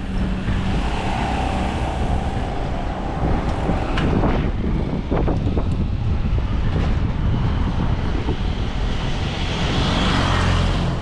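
Wind buffeting the microphone while riding, over road traffic noise. A few brief sharp sounds come about four to five seconds in, and a vehicle's rushing noise builds near the end.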